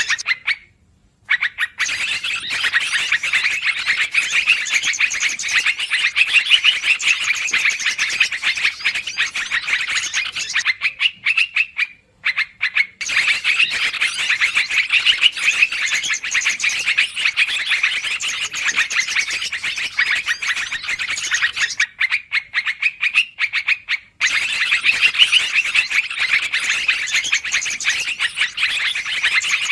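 Yellow-vented bulbuls (trucukan) chattering noisily in a dense, rapid run of calls, as in a bird-lure recording played in a loop. Three short breaks come about a second in, near the middle and about two-thirds through.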